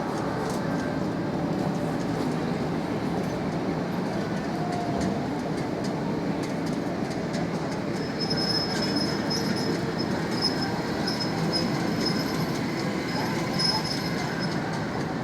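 Manyosen tram running on its rails with a steady rumble; from about halfway through, a thin high-pitched wheel squeal comes and goes.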